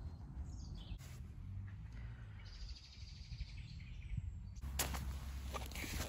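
A small songbird singing a rapid, high trill for about two seconds in the middle, over a low rumble, with a few sharp clicks near the end.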